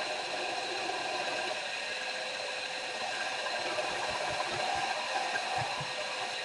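Electric grinder running steadily as a hand-held steel punch is ground to shape: an even motor whine over a rushing hiss.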